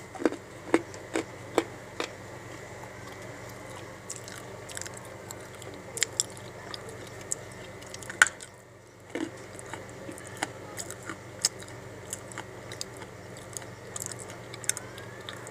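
Chunks of dry edible clay being bitten and chewed close to the microphone: sharp cracks and crunches with softer chewing between them. The loudest bites come in the first two seconds and about eight seconds in, followed by a brief lull.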